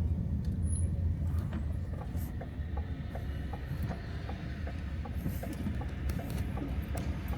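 Steady low rumble of a motor vehicle, with scattered light ticks and clicks.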